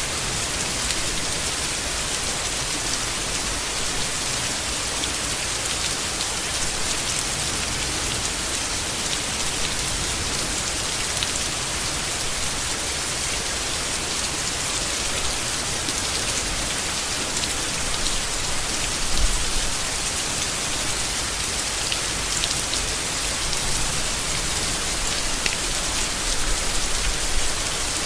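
Steady heavy rain falling on leaves and foliage, an even hiss with scattered drop impacts.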